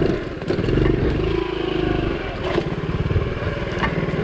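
Honda CT70's small air-cooled single-cylinder four-stroke engine running at low revs, its speed rising and falling a little as the bike is ridden over rough ground, with a few sharp knocks and rattles.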